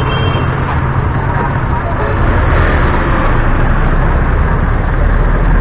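Motorcycle engine running steadily in slow traffic, with wind and road noise on the helmet microphone. A short high beep sounds in the first half second.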